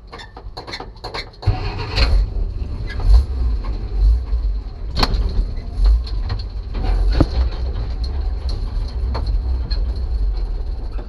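1967 Kaiser Jeep M715 military truck running on the move: a heavy low engine rumble comes in about a second and a half in. Several loud knocks and rattles from the truck sound over it.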